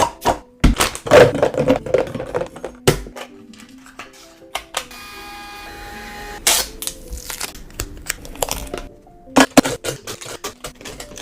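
Light background music with repeated sharp clicks and knocks of food packages and containers being handled and set down, and a steady hiss for about two seconds in the middle.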